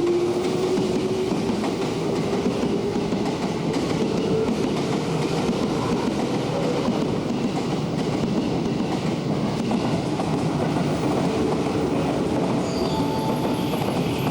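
Electric commuter train running along a station platform: a steady rumble of wheels on the rails, with a motor whine that rises gently in pitch at the start. Faint high wheel squeal near the end.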